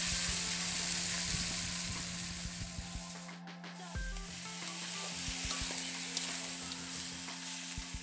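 Chicken pieces sizzling in hot oil in a kadai, with a metal spatula scraping and knocking against the pan as they are stirred. The sizzle eases briefly about three and a half seconds in.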